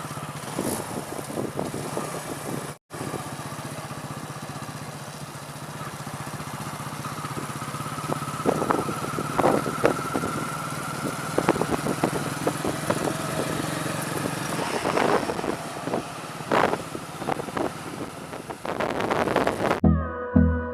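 TVS Apache 180 motorcycle's single-cylinder engine running on the move, with road and wind noise and scattered sharp knocks. A whine in the middle rises slightly in pitch.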